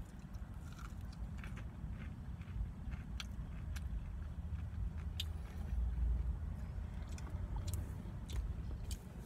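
A person chewing a honey-dipped breaded fried chicken tender, with irregular wet mouth clicks and soft crunches, over a steady low rumble.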